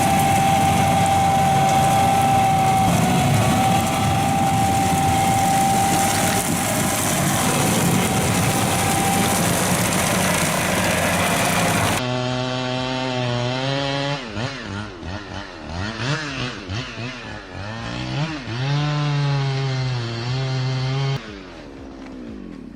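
A stump grinder running and chewing into a stump: a loud, even roar with a thin steady whine over it. About twelve seconds in, this gives way to a chainsaw revving up and down over and over as it cuts, which drops off near the end.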